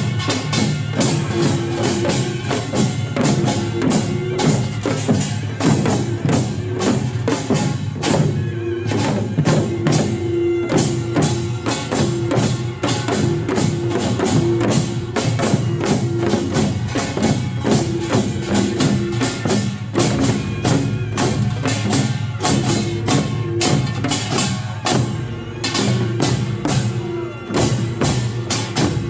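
Korean pungmul farmers' band playing: kkwaenggwari small gongs, janggu hourglass drums, buk barrel drums and jing gong beating a fast, dense rhythm with no pauses.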